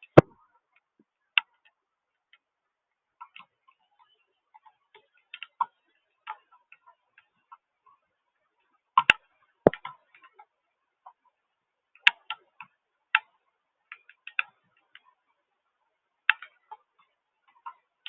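Water drops falling at irregular intervals onto a hard surface close to the microphone: scattered sharp ticks and taps, a few much louder than the rest, with quiet between them.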